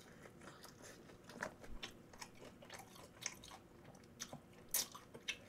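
Quiet close-up mouth sounds of biting and chewing a piece of Korean fried tempura coated in spicy tteokbokki sauce: irregular wet smacks and crunchy clicks, the sharpest one near the end.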